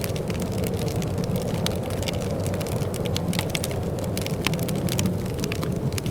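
Wood fire crackling in a fireplace: frequent sharp pops and snaps, some louder than others, over a steady low rumble.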